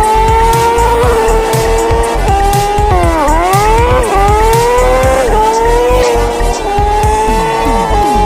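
Kawasaki ZX4R's inline-four engine revving high and held up in the revs, with the pitch dropping sharply and climbing back about three seconds in and smaller dips and steps after, as the throttle is blipped.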